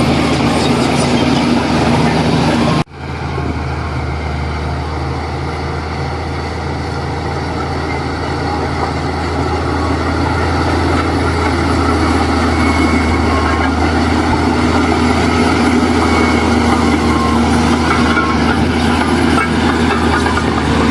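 Heavy diesel earthmoving machinery running steadily under load. The sound drops out sharply for a moment about three seconds in, then carries on.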